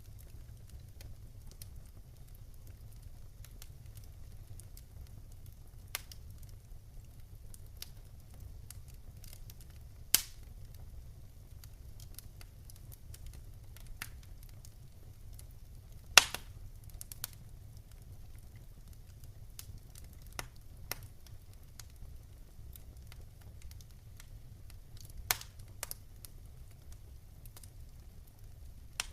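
Wood fire in a fireplace crackling: scattered sharp pops over a steady low rumble, the loudest pops coming about ten and sixteen seconds in.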